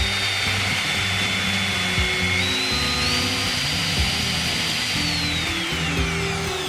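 CNC machine's cutting spindle running with a steady high whine that steps up in pitch partway through and then glides down near the end, over background music.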